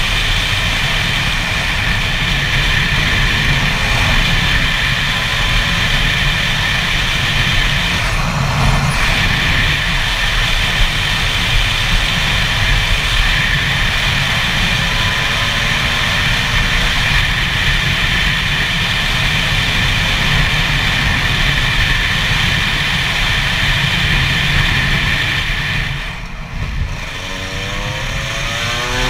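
Two-stroke 125 cc single-cylinder engine of a Gas Gas EC SMR 125 supermoto running steadily at cruising speed, with low wind rumble on the helmet-mounted microphone. Near the end the throttle closes for a bend, and the engine note then rises again as the bike accelerates.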